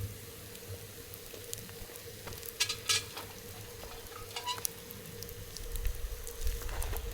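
Wood fire crackling, with scattered sharp pops and a quick cluster of crackles about two and a half seconds in. Wind buffets the microphone with a low rumble in the last second or two.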